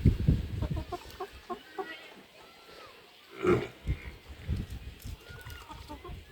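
Chickens clucking in a run of short, quick notes, with one louder call about three and a half seconds in.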